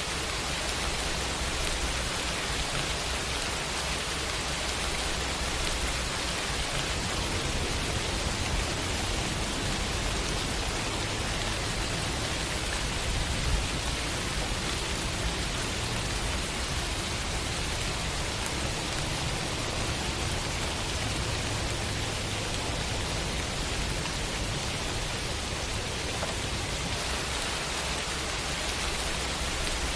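Steady rain falling on hard surfaces, an even hiss of drops without a break, with one faint tap about halfway through.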